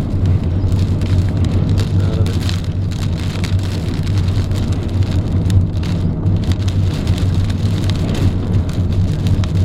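Heavy rain and hail pelting a moving car, a dense patter of many sharp individual hits over the steady low drone of the engine and tyres.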